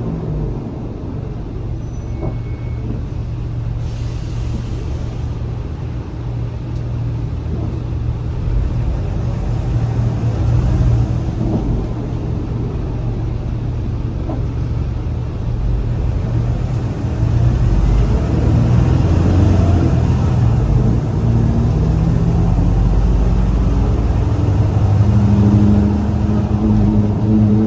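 Scania L94UA bus engine running with a steady low rumble, with a short air-brake hiss about four seconds in. From about two-thirds of the way through, the engine gets louder and rises in pitch as the bus pulls away.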